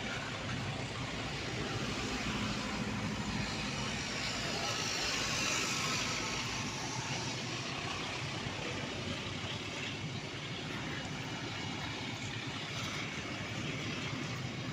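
A passing vehicle: steady running noise that swells to its loudest about five seconds in and then eases off.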